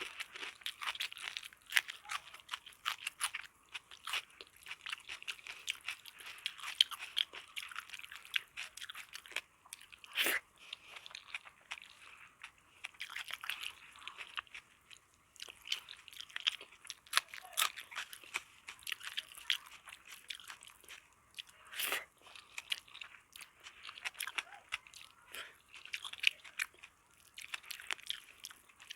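Close-miked eating: irregular crisp crunching and chewing mouth sounds, with two louder sharp clicks, about ten seconds in and again a little past twenty seconds.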